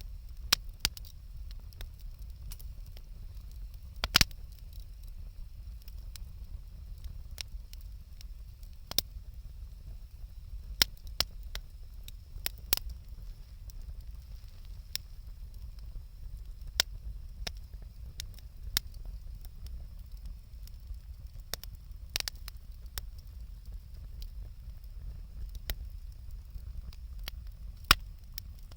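Wood campfire crackling, with sharp pops at irregular intervals over a steady low rumble. The loudest pop comes about four seconds in.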